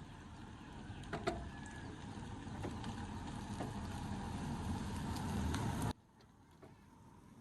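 A vehicle engine's low rumble running and growing louder, with a few sharp knocks, then cut off abruptly about six seconds in.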